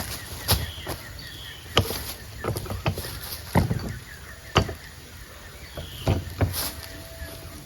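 Irregular sharp knocks and thuds, about seven of them spaced unevenly, over a rural background with faint bird chirps.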